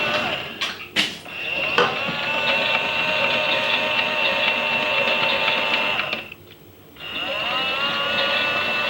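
Toy Miele washing machine's small electric motor whining steadily as the drum turns. It falters with a few clicks about a second in, cuts out for most of a second near the end, then winds back up with a rising whine, as the drum stops and restarts during the wash.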